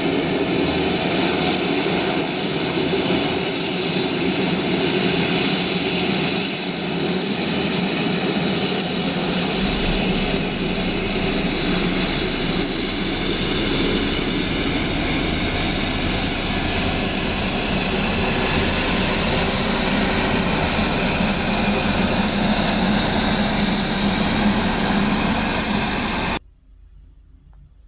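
Turboprop engines of an N219 twin-engine aircraft running loud and steady, with a steady high whine over the propeller noise. The sound cuts off abruptly near the end.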